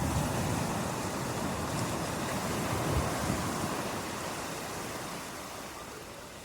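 Ocean waves breaking on a beach: a wave swells in at the start and its wash slowly recedes, with some wind on the microphone.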